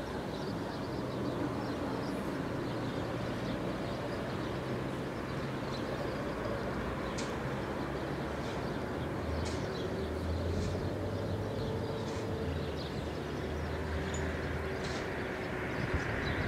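Steady distant rumble and hum of an electric locomotive running on the railway line, with faint low humming tones that grow stronger about two-thirds of the way through.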